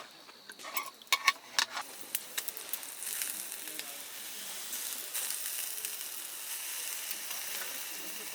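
Meat sizzling as it cooks, a steady hiss that swells about three seconds in, with a few sharp clicks in the first two seconds.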